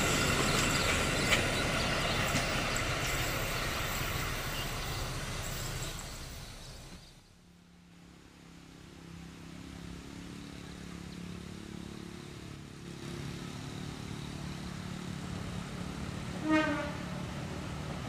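A passing train's rumble fades away over the first several seconds. A diesel locomotive's engine hum then builds, and one short horn blast sounds near the end.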